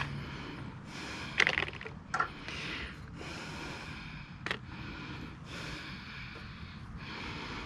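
A few light clicks and knocks of hand tools working on the engine's metal case, spread out over several seconds, with soft scraping and handling noise between them.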